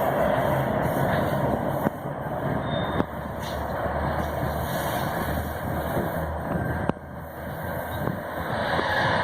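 Freight train rolling past: a steady rumble and rattle of wagons on the track, with a few sharp clicks.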